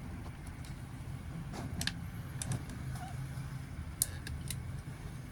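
A few light, scattered plastic clicks and taps from a Micro Machines toy car wash playset being worked by hand, over a low steady hum.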